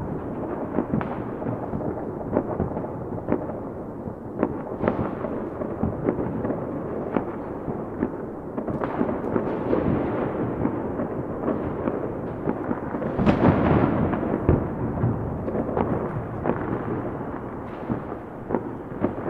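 Fireworks going off continuously: a dense rumble of many bangs and sharp crackling pops, with a louder cluster of bangs about two-thirds of the way through.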